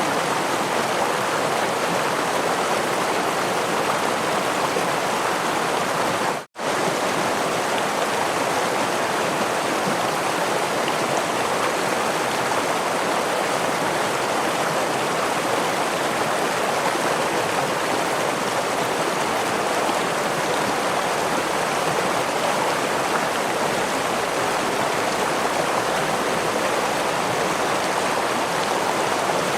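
Stream and small waterfall flowing steadily: an even rush of running water. The sound drops out for an instant about six and a half seconds in.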